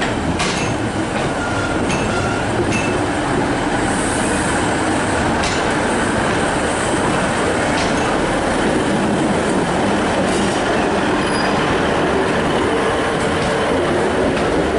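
A train moving slowly at a station platform: a steady rumble with a few clanks and brief high-pitched wheel squeals in the first half.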